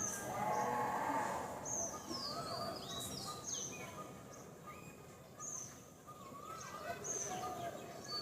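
Wild birds calling: a series of short, high whistled notes that slide downward, repeated every second or two, with a few lower warbling notes, over steady outdoor background noise.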